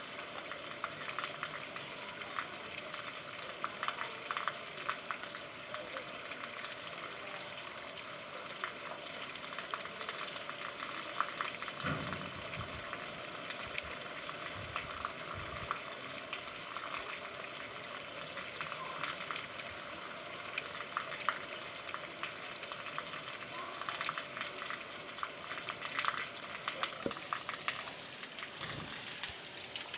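Steady rain: a dense, even patter of drops, with a few dull low thumps about twelve and fifteen seconds in and again near the end.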